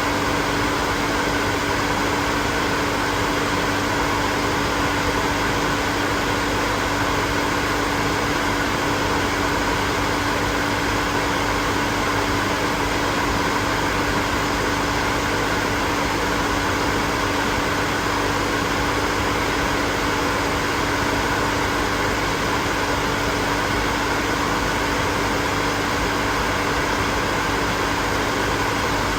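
Hair dryer running steadily: an even rush of blown air with a constant motor hum, unchanging throughout.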